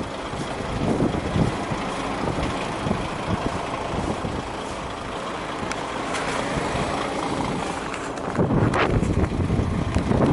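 Truck noise in a snowstorm: a steady rushing of engine and wind, with a louder surge about eight and a half seconds in.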